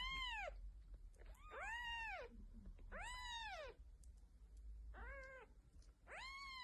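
A cat meowing about five times, faintly, each meow rising and then falling in pitch and lasting about half a second, with gaps of roughly a second between them.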